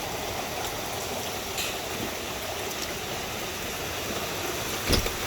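Steady rushing of rain and running water after a hailstorm, with a single sharp thump near the end.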